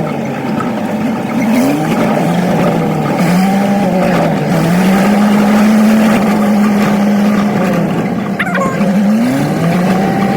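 Old truck's engine running under way, its note dipping and then climbing again several times, about two seconds in, near the middle and near the end, as the truck shifts and picks up speed, over steady road noise.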